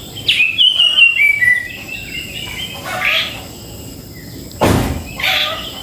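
Cucak jenggot (grey-cheeked bulbul) calling: a quick run of whistled notes stepping down in pitch, then softer chirps. A single sharp knock sounds a little before the end.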